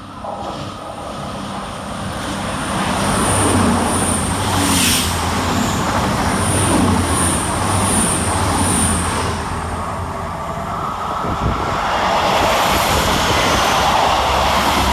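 Two coupled Class 220 Voyager diesel-electric multiple units passing through the station under power: underfloor diesel engines running with wheel and rail noise, loudest in the middle. A second surge of train noise builds over the last few seconds.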